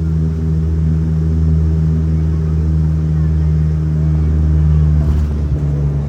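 De Havilland Dash 8 turboprop's engines and propellers droning, an even low hum. The tone shifts slightly about five seconds in.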